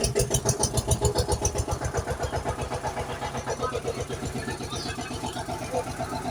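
Tractor engine chugging in a fast, even rhythm of about eight beats a second, a little softer in the second half.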